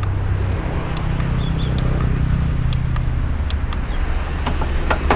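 Small electric fan running, a steady low motor hum that shifts in pitch a couple of times as it is moved, with scattered light clicks of handling.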